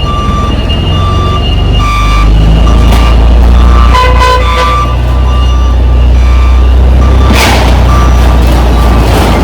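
Heavy diesel truck engine running with a deep steady rumble, while a backup alarm beeps evenly about every two-thirds of a second. A short horn-like toot sounds about four seconds in, and a burst of hiss comes about seven and a half seconds in.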